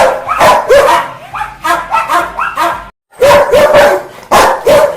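Rottweiler barking angrily in rapid repeated barks, about three a second, broken by a brief silence about three seconds in.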